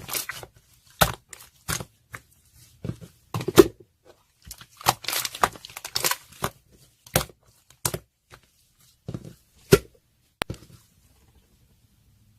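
Irregular run of sharp crackling clicks and crinkles, as of something being handled, squeezed or torn close to the microphone, dying away about ten and a half seconds in.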